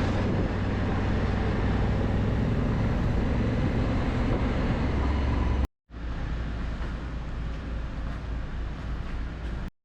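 Motorcycle engine running steadily under way, with road and wind noise, in two cut-together clips; the second is a little quieter.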